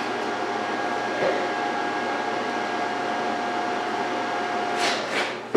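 Steady fan-like whir with a constant hum, most likely the MIG welder's cooling fan running. It stops shortly before the end and is followed by a couple of sharp knocks of metal being handled.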